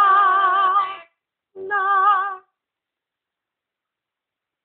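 Amazon parrot singing two long held notes with a steady vibrato wobble, the second shorter than the first.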